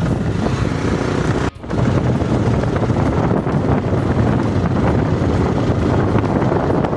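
Steady rumble of a moving vehicle with wind buffeting the microphone, broken by a brief dropout about a second and a half in.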